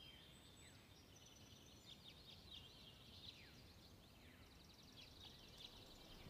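Near silence with faint birdsong: thin high chirps, a few short falling whistles and a quick trill a little before the end.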